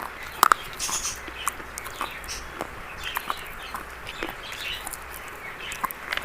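Brown biscuits being crunched and chewed: irregular sharp crunches and crackles, some seconds apart, over a low steady hum.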